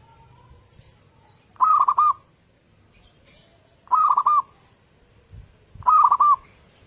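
Zebra dove (perkutut) cooing: three short phrases, each a quick run of a few clipped notes, repeated about every two seconds.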